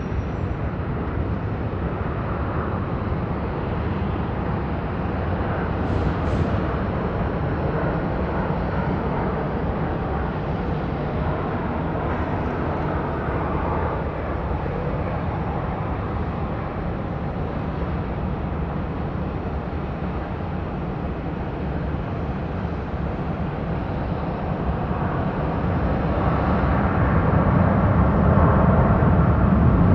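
Jet airliner engine noise, a steady rumble that grows louder over the last few seconds.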